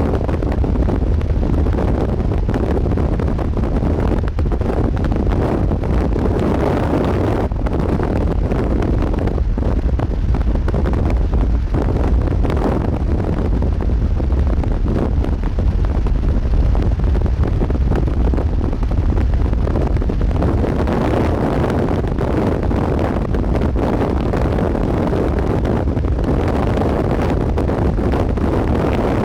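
Steady low rumble of a vehicle driving at speed, with road and wind noise.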